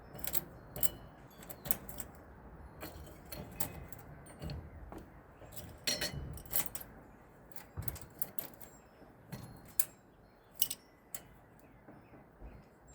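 Irregular small metal clicks and clinks of screws and a screwdriver against ceiling-fan hardware as the screws are started and tightened, with a couple of sharper clicks near the end.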